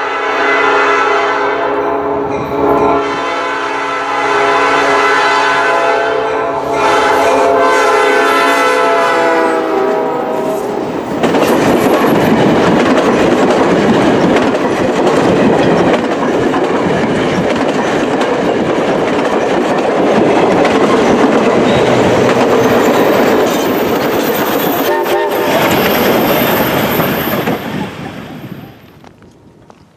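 Reading & Northern 4-6-2 steam locomotive #425 sounding its Southern Railway six-chime whistle in several blasts over the first ten seconds or so. The train then passes close by with a loud, steady rumble of wheels on rail. The rumble dies away near the end.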